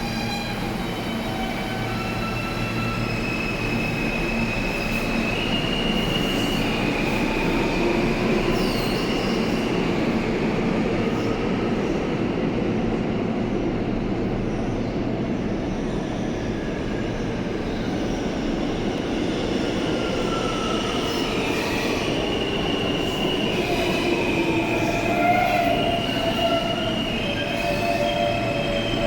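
R160 subway train running through the station, with a steady rumble of wheels on rail and high wheel squeal. A motor whine slides down in pitch and later climbs again.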